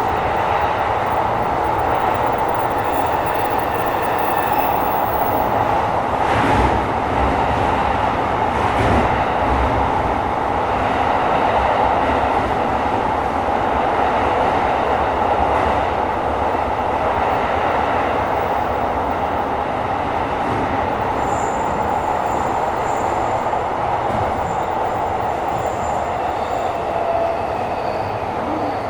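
Tokyo Metro 17000 series subway train running at speed through a tunnel, heard inside the passenger car: a steady rumble of wheels on rail with a faint motor whine over it. A thin high tone comes in about two-thirds of the way through.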